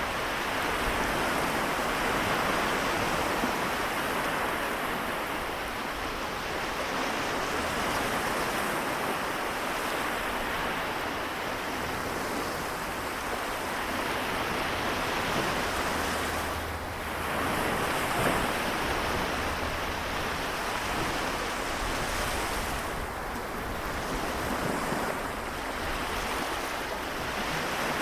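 Seto Inland Sea waves washing in a continuous wash that swells and eases, with a short lull and then a surge a little past the middle.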